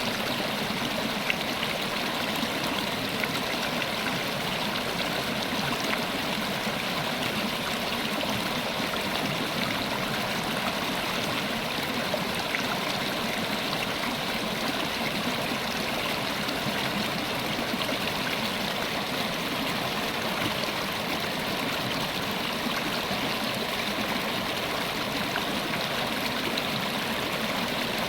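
River water running steadily over rocks, a continuous rushing with small splashes and gurgles.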